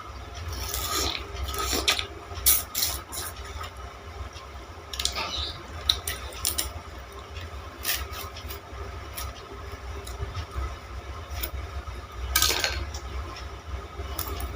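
Green sugar cane being bitten and chewed close to the microphone for its juice: irregular crisp cracks and crunches of the fibrous stalk, with a loud crunch about twelve seconds in. A steady low hum runs underneath.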